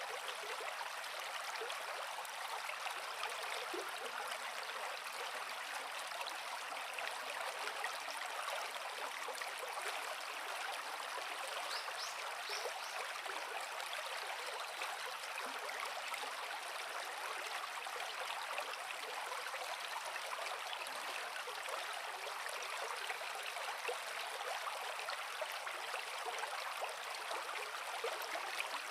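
Forest creek water flowing over rocks: a steady, even rushing that does not let up.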